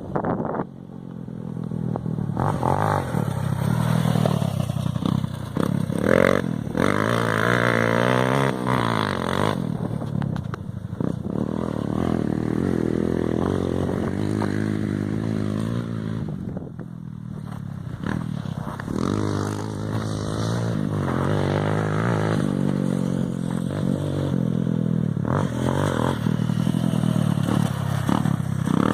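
Motorcycle engine running and revving, its pitch rising and falling again and again, with a brief drop in the middle.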